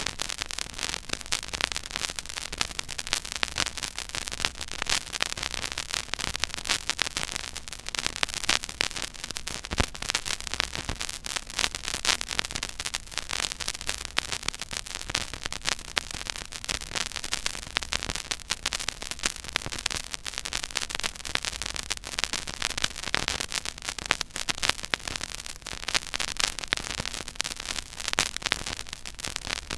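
Stylus tracking the silent groove of a 12-inch 33 1/3 rpm vinyl record: steady surface hiss with dense crackle and pops, and a faint low rumble.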